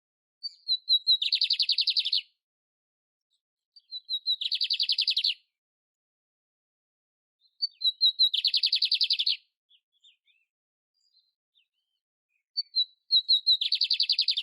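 Canário império singing: four repeated song phrases, each a few short high notes running straight into a fast, rattling trill about a second long, coming roughly every four seconds.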